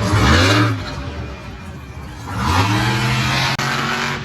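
Monster truck engine revving hard. It runs high at the start and drops back, then revs up again about two and a half seconds in and holds for about a second.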